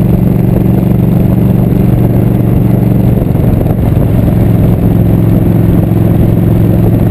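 Motorcycle engine running at road speed while being ridden, its note shifting about halfway through.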